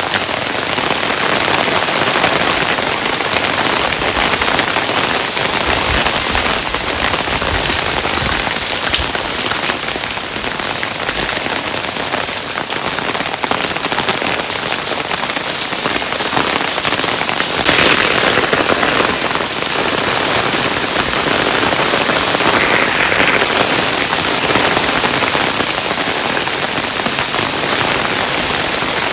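Hailstones falling steadily and pattering on a hard surface, a dense spread of small impacts, a little louder about 18 seconds in.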